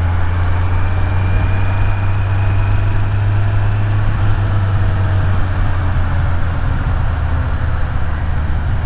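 Kawasaki Z900's inline-four engine running steadily while the motorcycle is ridden, with a constant rush of wind and road noise.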